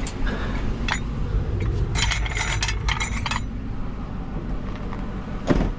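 Metal knives and cutlery clinking against each other as they are handled, with a quick run of clinks about two seconds in and a louder knock near the end.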